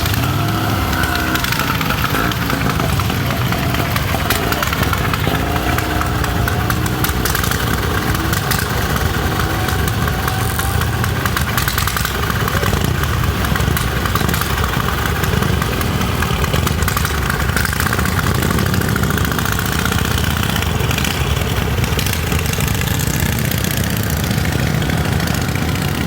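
Antique motorcycle engine running at idle, steady throughout.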